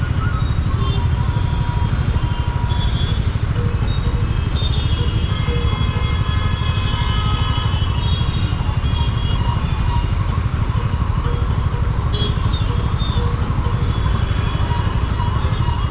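Steady rush of wind and road noise on the microphone while riding a TVS Ntorq 125 scooter through city traffic. Short higher-pitched tones come and go above the rumble.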